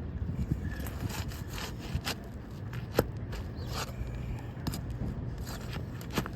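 Asphalt architectural shingle being pried up and worked loose off the roof: repeated rough scraping and rubbing strokes, with a sharp snap about three seconds in.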